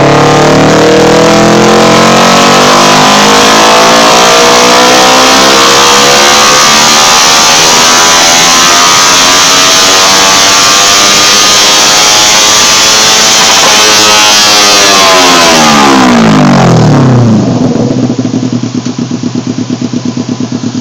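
Kawasaki Ninja 250 engine with a Totsubo aftermarket exhaust making a full-throttle dyno pull. The revs climb steadily for about fourteen seconds, then fall away quickly as the throttle is shut, and the engine settles to a lower, pulsing run near the end.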